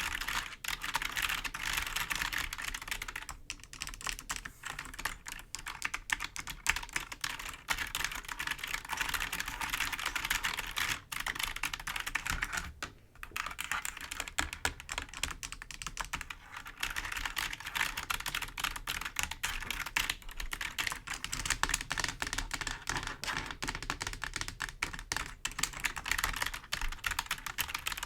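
Fingers tapping and scratching on a computer keyboard's keys: a dense, continuous run of clicky key sounds with a short lull a little before halfway.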